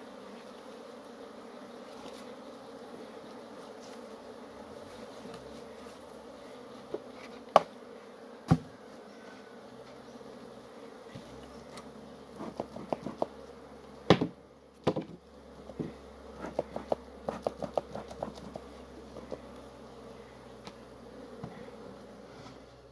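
Honeybees buzzing steadily around an open hive, with a few sharp knocks and a run of quick clicks about halfway through.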